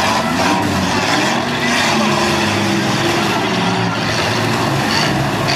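Several demolition derby cars' engines running and revving together, their pitch rising and falling as the cars push and ram.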